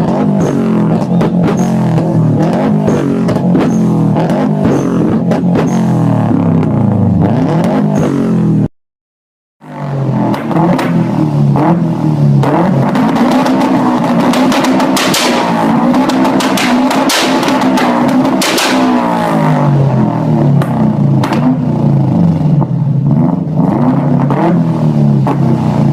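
Turbocharged Subaru flat-four engine revving, its note rising and falling, with a run of sharp exhaust pops and crackles through the middle stretch. The sound cuts out for about a second around nine seconds in.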